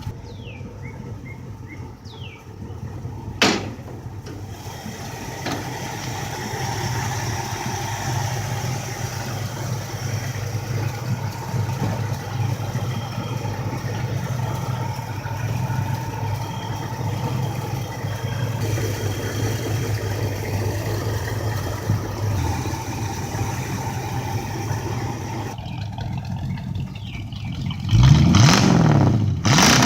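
1967 Camaro V8 idling with a steady exhaust rumble, with a sharp knock a few seconds in. Near the end it is revved hard, the pitch climbing and falling as the exhaust gets much louder.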